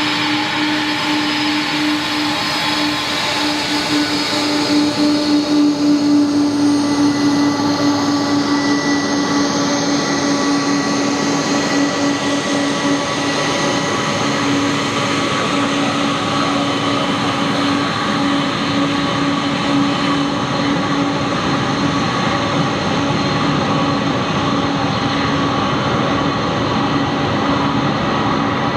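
Jet airliner engines running steadily: a constant whine of several fixed tones over a broad rush, swelling a little about five seconds in.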